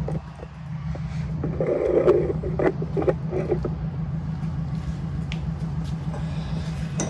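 Automatic centre punch snapping against steel spot welds, several separate sharp clicks spread irregularly, marking the weld centres before drilling. A steady low hum runs underneath.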